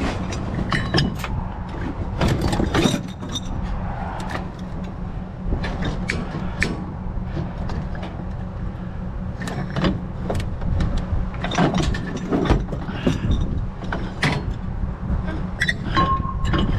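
Scrap metal clanking and knocking in irregular bursts as pieces are shifted and wedged into the back of a loaded pickup truck, over a steady low rumble.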